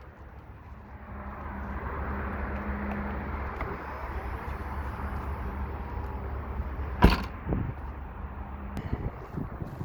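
Handling knocks in an SUV's cargo area, the loudest a single sharp knock about seven seconds in, followed by a few lighter knocks, over a steady low rumble.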